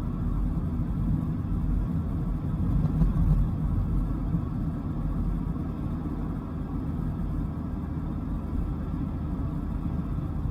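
Dodge Viper GTS's V10 engine running steadily while driving, a low drone mixed with road rumble, swelling slightly about three seconds in.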